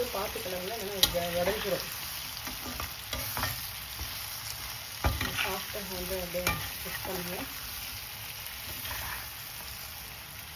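Elephant yam strips sizzling in hot oil in a metal kadai as a spatula stirs and scrapes them around the pan. A few sharp knocks of the spatula on the pan stand out, loudest about a second in and again about five seconds in.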